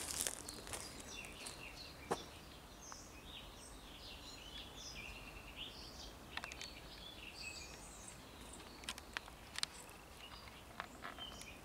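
Songbirds chirping in many short, high calls over faint steady outdoor background noise, with a few sharp clicks scattered between them.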